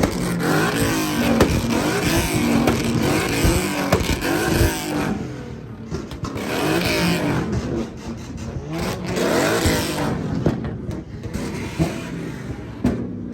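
Car engines revving, their pitch climbing and falling in several repeated surges, with loud exhaust noise.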